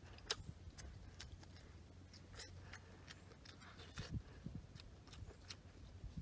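A person chewing and biting food close to the microphone, with irregular small crunches and clicks, a few louder ones about two and a half and four seconds in.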